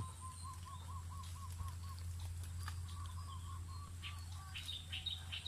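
A bird calling: a quick run of short, identical rising-and-falling notes, about five a second, then a second shorter run, over a low steady hum.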